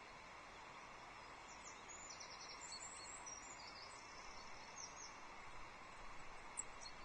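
Faint, high-pitched chirps and twitters of small songbirds, a quick cluster of short notes from about a second and a half to five seconds in and a couple more near the end, over a steady outdoor background hiss.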